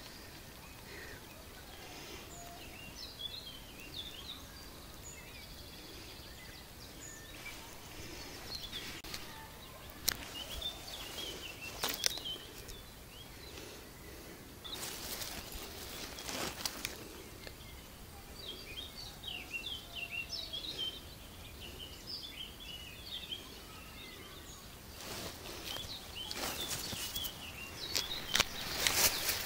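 Small birds chirping and singing in the background. Two sharp clicks come about a third of the way in. Several seconds-long swells of rushing noise come around the middle and near the end.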